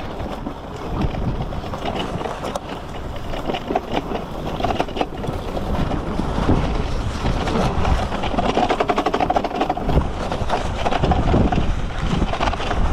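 Freego X2 electric dirt bike ridden over rough dirt: the bike rattles and clatters over the bumps, with tyre and wind rumble and a faint electric motor whine that comes and goes.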